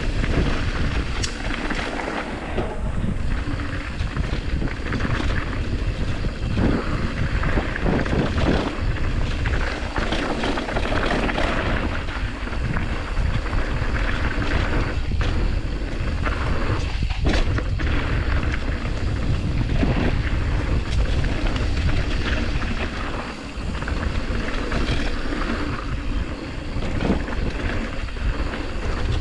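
Mountain bike riding on a dirt trail: wind rushing over the microphone, tyre noise and a busy rattle of small knocks from the bike over rough ground.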